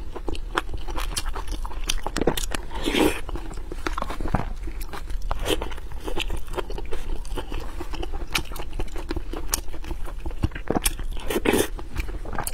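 Close-miked eating sounds of a person chewing braised meat with rice: steady chewing with many sharp mouth clicks and smacks, and a couple of longer, louder mouth sounds about three seconds in and near the end.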